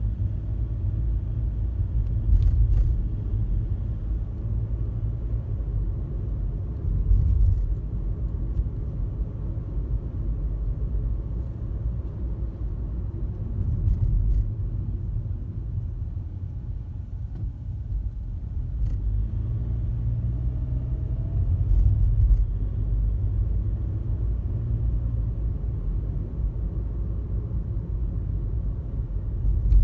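Car driving on a highway: a steady low rumble of road and engine noise, with a few faint knocks from the road surface.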